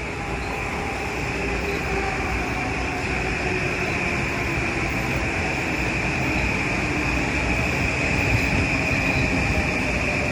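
Metro-North Kawasaki M8 electric multiple-unit train running past, a steady rumble of wheels on rail with a high, steady whine over it, growing gradually louder.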